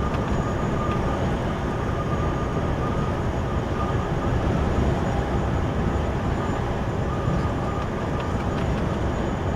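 Steady road and engine noise inside a moving truck cab, the tyres running on a concrete road surface.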